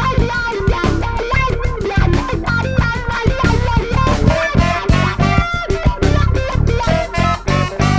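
Funk-jam band playing live: electric guitar and bass guitar over a drum kit, a busy run of picked guitar notes on a steady beat.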